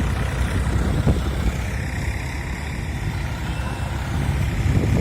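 Tractor engine running steadily with a low rumble, with a brief louder knock about a second in.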